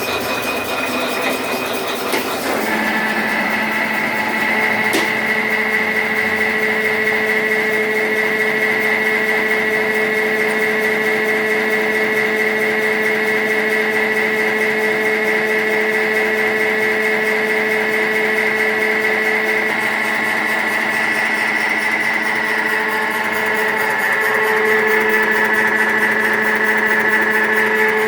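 Feed pellet machine running, a steady mechanical hum with a high whine that settles in about two and a half seconds in. There is a single sharp click a couple of seconds later.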